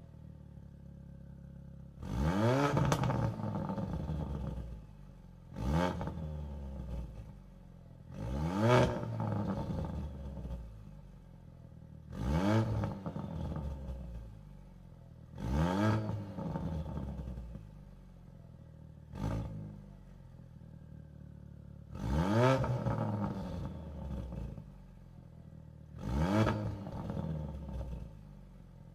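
Ford Focus RS with a Precision turbo and a 3.5-inch turbo-back exhaust with a Vibrant muffler, idling and being blipped about eight times: each rev climbs quickly and drops back to idle, every three to four seconds.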